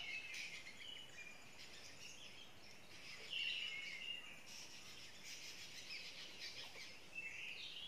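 Faint outdoor background noise with birds chirping now and then, short high calls dotted through it.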